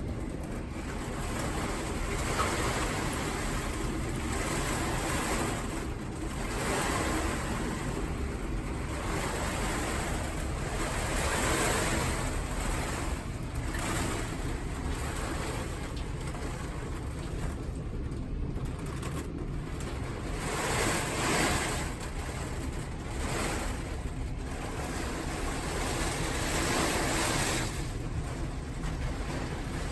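Typhoon wind and heavy rain, a steady rush of noise that swells in gusts every few seconds, with wind buffeting the microphone.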